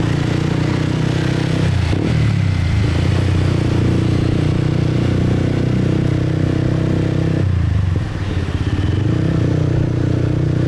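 150 cc motorbike engine running while riding. The engine note dips and climbs again about two seconds in, then drops off briefly about three-quarters of the way through before picking back up.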